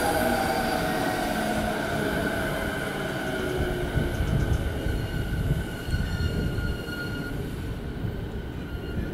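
A JR 209 series electric commuter train rolling past on the rails and slowing into its station: a dense low rumble of wheels on track with a steady high whine, both fading as the last cars go by near the end.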